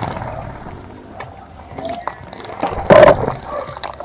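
Small birds bathing in a garden bird bath, flicking and splashing the water in irregular bursts, with the loudest splash about three seconds in.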